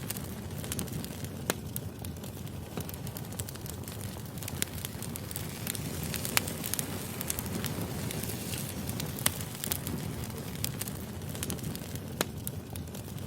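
Wood fire burning: a steady low rumble with sharp crackles and pops of the firewood scattered irregularly through it.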